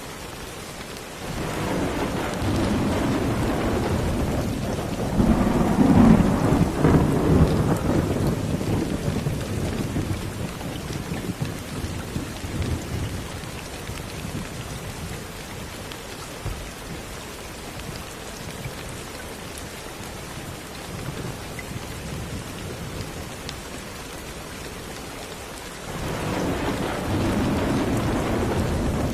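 Steady rain falling, with a long roll of thunder that builds about two seconds in, crackles at its peak and slowly fades away; a second thunder rumble begins near the end.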